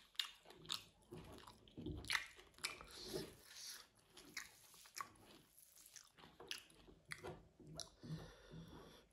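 Close-up mouth sounds of a person eating rice and meat curry: chewing and biting, with irregular wet smacks and clicks a few times a second.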